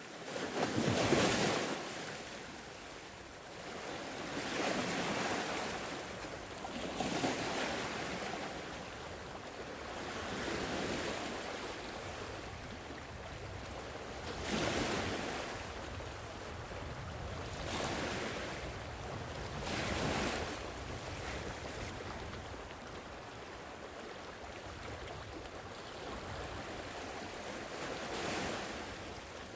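Gentle sea waves washing onto a shore, each swell rising and falling away every few seconds.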